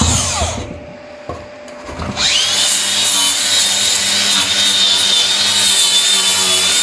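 Angle grinder with a flap disc winding down and stopping, then started again about two seconds in, its whine rising and settling into a steady pitch as it grinds paint and rust off steel.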